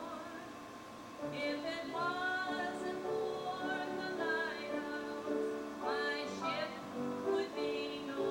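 Live concert music: a woman singing a slow melody with vibrato over sustained instrumental accompaniment.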